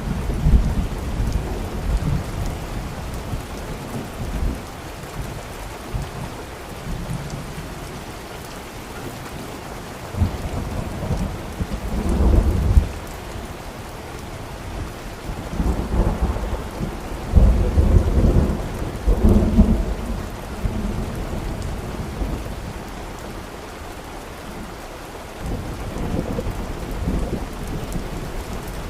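Steady rain with thunder rolling low several times, the rumbles swelling loudest around the middle.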